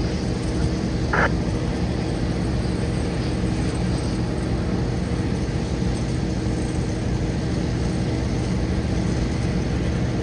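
Steady low rumble and hum of a Boeing 777's jet engines at taxi power. A brief high chirp cuts in about a second in.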